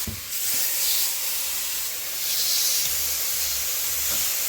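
Marinated LA-style beef short ribs sizzling on a hot skillet, a steady hiss as the sugary marinade hits the hot pan.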